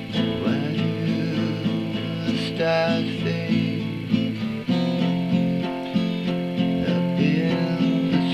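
Acoustic guitar strummed in steady chords, changing chord about halfway through, with a voice gliding briefly over it a few times.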